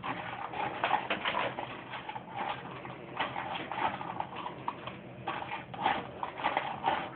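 Dog food being mixed in a bowl: an irregular run of clicks and scrapes as the kibble is stirred.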